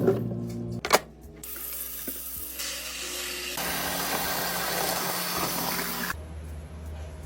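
Tap water running into a sink: a click, then a steady stream that starts about a second and a half in, grows fuller and stops about six seconds in, leaving a low hum.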